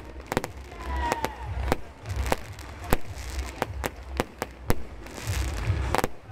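Aerial fireworks bursting: a string of sharp bangs at irregular intervals, with a faint whistle about a second in.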